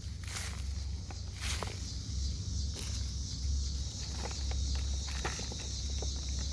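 Hand digging and rummaging through dry soil in a potato grow bucket, with scattered short scratches and rustles, over a steady high-pitched hum.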